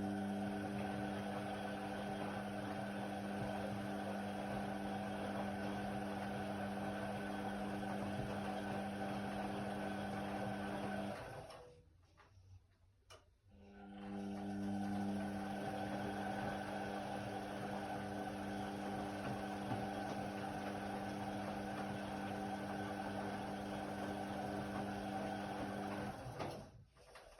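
Indesit WIDL 106 washer-dryer running its drum motor with a steady hum. It stops for about two seconds roughly halfway through, starts again and stops shortly before the end, the stop-and-start pattern of a drum turning in a wash or dry cycle.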